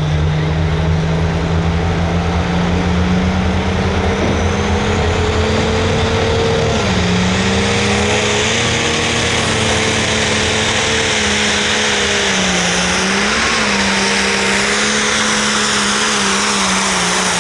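Pulling tractor's diesel engine at full throttle, dragging the weight-transfer sled down the track: a loud, steady high engine note with a faint high whine climbing over the run. The pitch sags twice under the load and picks back up.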